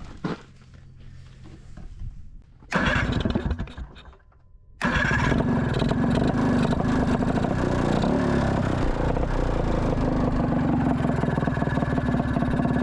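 A Honda Odyssey FL250's single-cylinder two-stroke engine starts up: it runs loudly for about two seconds from around three seconds in and cuts off abruptly, then from about five seconds in it runs steadily and loudly.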